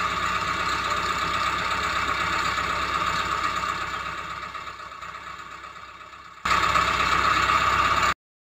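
A motor running steadily with a high whine. It fades away gradually, comes back suddenly loud near the end, then cuts off abruptly.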